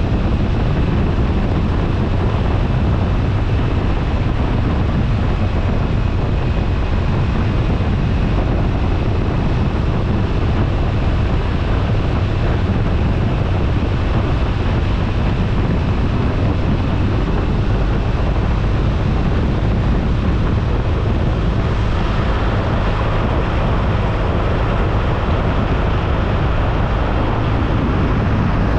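BMW R1250RT motorcycle riding at a steady cruise: steady wind rush over the microphone with the boxer-twin engine humming underneath. The rush grows a little harsher about three-quarters of the way through.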